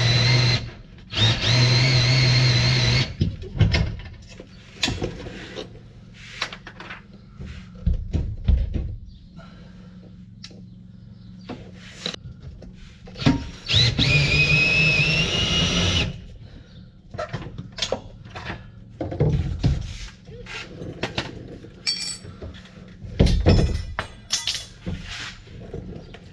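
Power drill-driver run in short bursts to undo the bolts on the box-section brackets holding a caravan's fresh water tank: three runs of a steady whine, the longest about 13 seconds in, rising in pitch as it starts. Knocks and clicks of metal parts between the runs.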